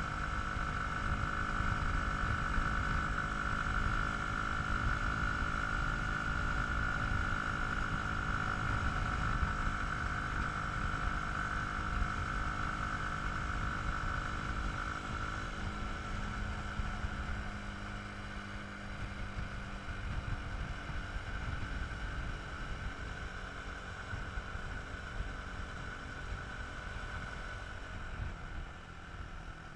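Dirt bike engine running at a steady speed, with low rumble from wind on the microphone; it grows quieter over the last third.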